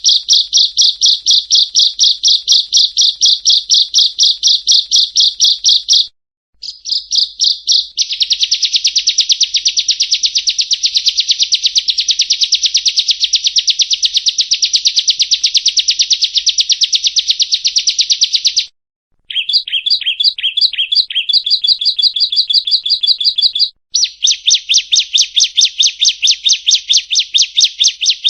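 Bar-winged prinia (ciblek kristal) singing loud, rapid runs of sharp, high repeated notes. The runs break off briefly about six, nineteen and twenty-four seconds in, and the middle stretch is a faster, denser trill.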